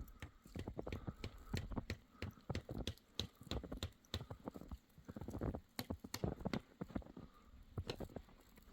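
Footsteps crunching through deep fresh snow: a run of uneven crunching steps.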